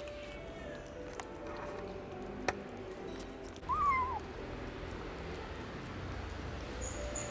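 A kitten meows once, a short cry that rises and then falls about halfway through. A single sharp click comes a little before it.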